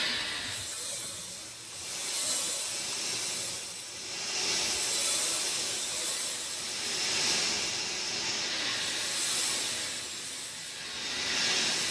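Steady rain falling, a dense hiss that swells and eases every two seconds or so.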